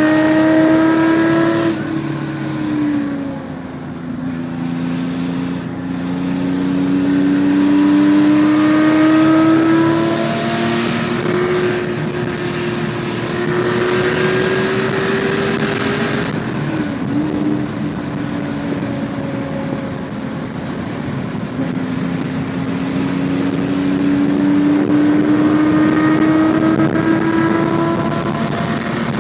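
1973 Porsche 911 2.4 S air-cooled flat-six with a SCART exhaust, under way with the revs climbing slowly in the gears. The revs drop sharply at gear changes about 2 seconds in and again about 17 seconds in.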